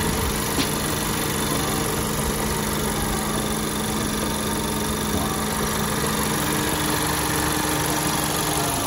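2017 Honda Accord Sport's four-cylinder engine idling steadily, heard from close by under the open hood.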